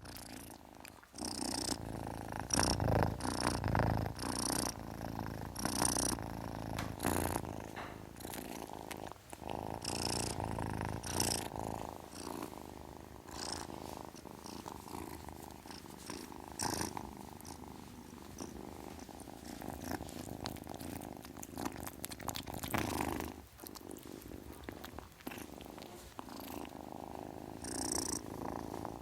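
A kitten purring steadily, with scattered short clicks.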